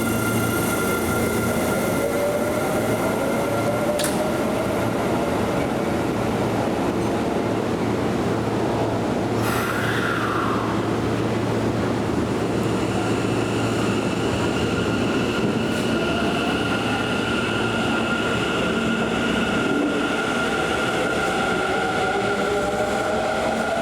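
Hanshin 1000 series electric train running through an underground station, a steady rumble of wheels and traction equipment with a high steady tone. A whine rises slowly in pitch over the last few seconds.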